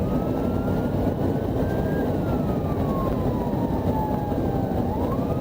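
Police siren on its slow wail setting: a rising tone, a long fall, then a rise again near the end, over steady vehicle engine and road noise.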